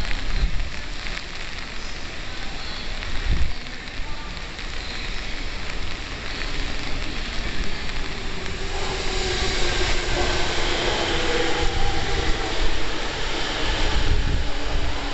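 Strong wind buffeting the microphone with rain, a heavy low rumble throughout. From about nine seconds in, a Saikyo Line electric train is heard, its running noise and a faint motor whine growing louder.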